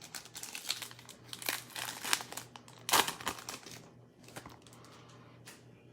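A foil trading-card pack wrapper being torn open and crinkled by hand, in quick crackling bursts for about three seconds, the loudest crackle about three seconds in, then a few fainter rustles.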